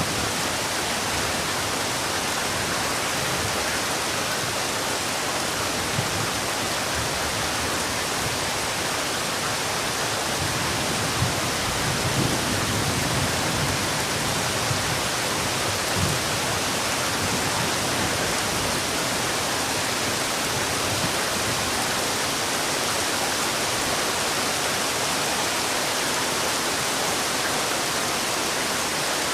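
Heavy rain falling in a steady, even hiss, with a few brief low thuds about halfway through.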